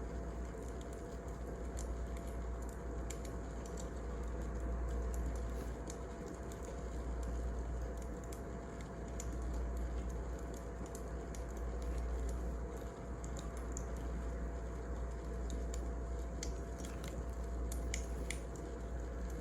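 Wood fire crackling: scattered small snaps and pops over a steady low rumble of burning logs.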